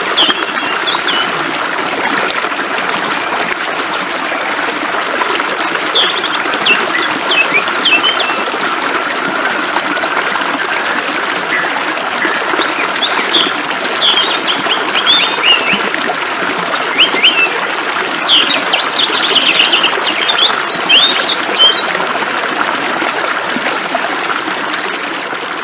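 Flowing water with a steady hiss, and small birds chirping over it in short, quick calls that come more often in the second half.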